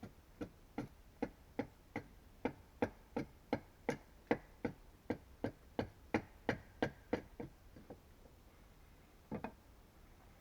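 A hand tool striking wood in a steady run of about twenty sharp knocks, roughly three a second, which then stop; after a pause, two more quick knocks come near the end.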